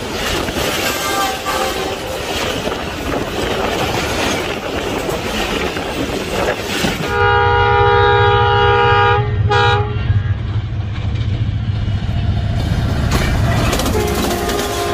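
A train running past at speed, its wheels clattering on the rails. About seven seconds in, the locomotive sounds its horn: a long blast, then a short one, over a heavy engine rumble that fades a few seconds later.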